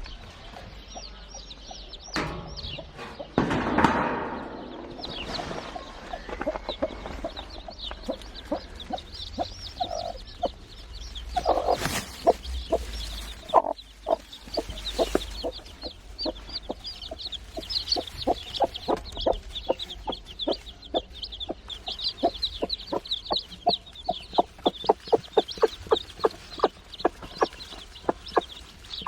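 Mother hen clucking in a long run of short, evenly spaced clucks that grow faster and louder about halfway in, with newly hatched chicks peeping high over them.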